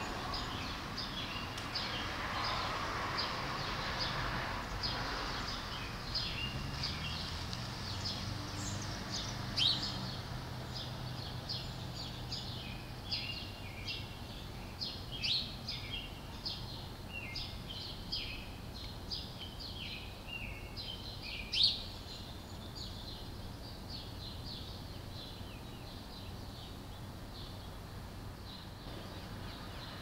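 Small songbirds chirping in quick, repeated high chirps, with a few louder chirps standing out, over a steady low background hum. The chirping stops a few seconds before the end.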